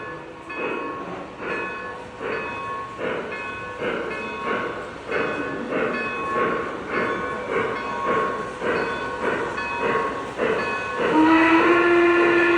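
Sound system of a Lionel O-gauge 2-8-8-2 steam locomotive model under way, giving rhythmic steam chuffs about two to two and a half beats a second. Near the end a loud steam whistle begins and is held.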